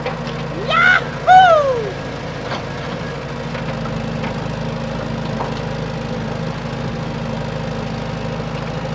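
Small engine of a DIY mini tractor running steadily at idle. About a second in, two short high pitched calls slide down in pitch and stand out above the engine.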